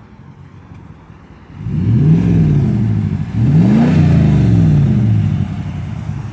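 Dodge Ram's Hemi V8 with a Y-pipe muffler delete (essentially straight-piped) idling, then revved twice, the engine note rising and falling back each time, the second rev bigger, before it settles back to idle.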